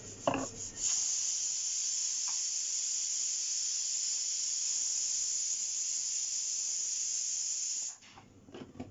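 A steady, high hiss that starts suddenly about a second in, runs for about seven seconds and then cuts off abruptly, like gas or spray escaping under pressure. A brief sharp sound comes just before it begins.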